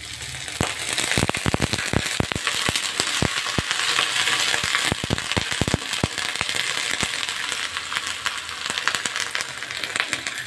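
Water poured into a hot wok of frying green beans, hissing and spitting in the oil, with many sharp crackles over the first six seconds. The beans are stirred with a slotted spatula against the wok as the sizzle goes on.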